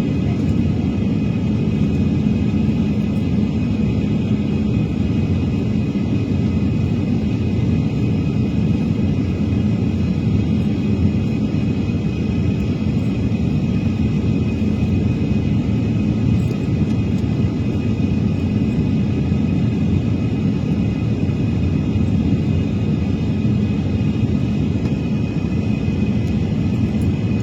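Steady cabin noise of a jet airliner in flight: an even rumble of engines and rushing air with a faint steady high whine.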